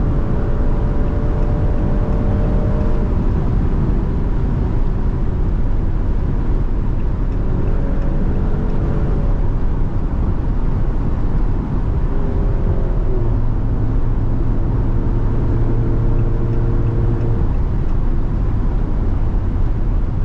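Maserati Grecale Trofeo's twin-turbo V6 running at a steady speed under heavy road and wind rumble. Its note settles at a new pitch about a second in and again around thirteen seconds in.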